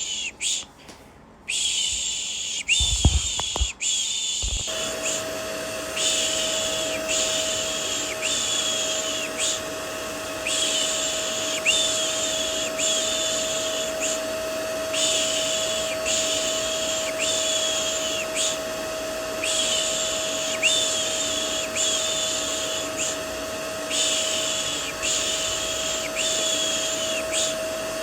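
A vacuum cleaner runs steadily with a constant whine as white noise, with a repeated soft 'shh' shushing sound laid over it. The 'shh' comes roughly every second and a half, with short pauses between groups. A few seconds in, after a brief dip and a couple of low thumps, the vacuum's whine settles in steadily.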